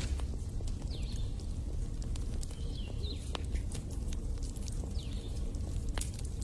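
Wood fire in a fireplace crackling: irregular sharp pops and snaps over a steady low rumble, with a louder pop near the end.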